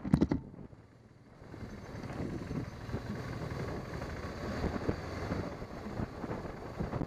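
Motorcycle riding with wind rushing over the microphone. A few sharp knocks come right at the start, then it drops quiet for about a second before the engine and wind noise build back to a steady level.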